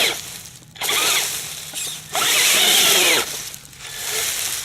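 Radio-controlled off-road truck's electric motor and gears whining under throttle, in two bursts of about a second or so each, the pitch rising and falling with the motor speed.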